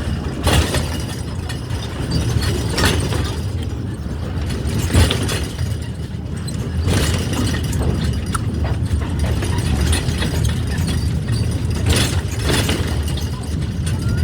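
Small park ride-on train running, a steady low rumble with irregular knocks and clacks every second or two.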